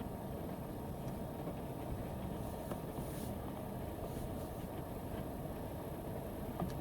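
Heavy rain drumming steadily on the roof of a van, heard from inside, with a few faint ticks of single drops.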